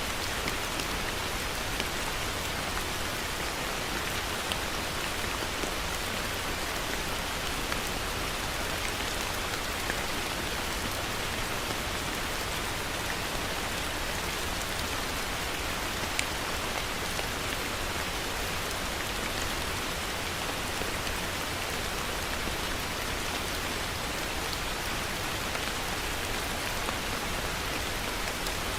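Heavy rain falling steadily, a dense even hiss with occasional distinct drops striking a surface.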